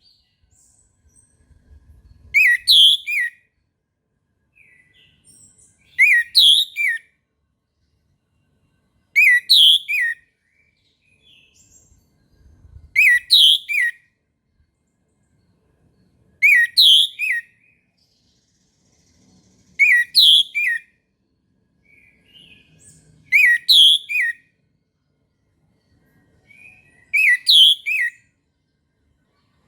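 Orange-headed thrush (anis merah) singing in the 'ngeplong' style, repeating the same short, loud phrase about every three and a half seconds, eight times over, with softer notes between.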